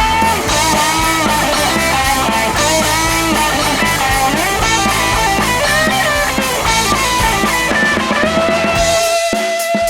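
Rock band instrumental: a guitar plays a melody with bending notes over bass and drums. Near the end the bass and full band drop away, leaving one long held guitar note with separate drum hits.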